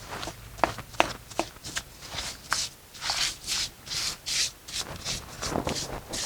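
Hand tools working a fresh mortar patch on a brick wall: repeated scratchy rubbing strokes, about two a second in the middle, after a few sharp clicks in the first second or so.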